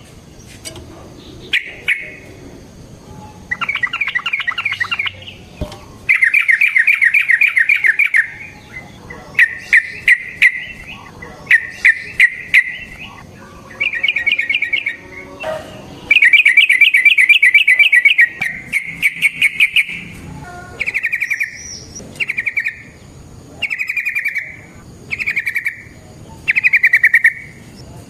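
Yellow-vented bulbul (trucukan) singing loud bursts of rapid, bubbling chattering notes. The longer runs come in the first half, and shorter phrases repeat about once a second near the end.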